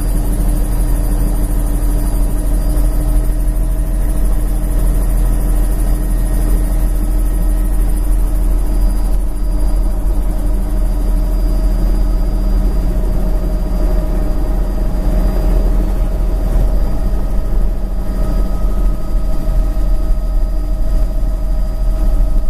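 Helicopter engine and rotors running steadily: a loud, even low drone with several steady whining tones above it.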